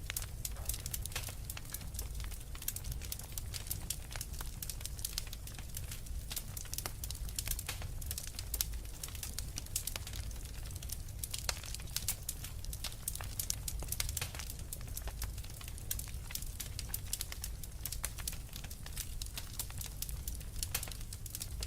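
Wood fire burning in a fireplace: logs crackling with many small irregular pops and snaps over a steady low rumble.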